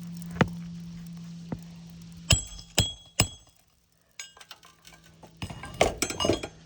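Metal hand tools clinking together with a short ringing tone: four sharp clinks spread over the first half, then a quick run of them near the end.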